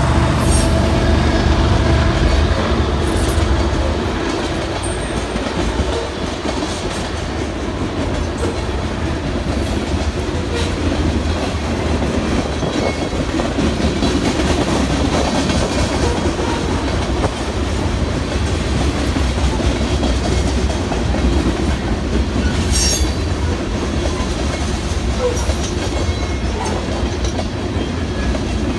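BNSF freight train of covered hoppers, tank cars and boxcars rolling past: a steady rumble of steel wheels on rail with clickety-clack over the rail joints. The drone of the just-passed diesel locomotives fades out in the first few seconds.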